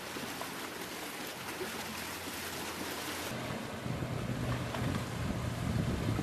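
Wind and surf from the storm as a steady rushing noise, with a low rumble building up over the last couple of seconds.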